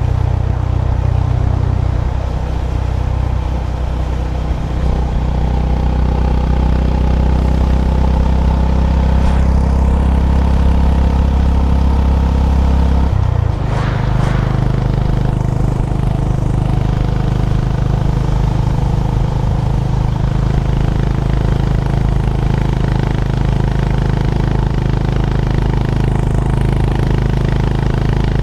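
Honda GB350's air-cooled single-cylinder engine running steadily on the move. About halfway through its note dips briefly and comes back at a different pitch.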